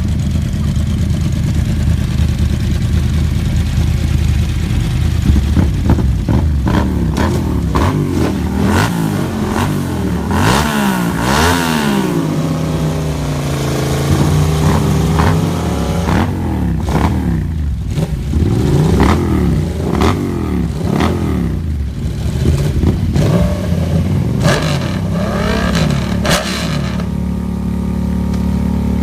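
Superbike engines revving, their pitch climbing and falling again and again, with more than one engine at times. Near the end they settle to a steady idle.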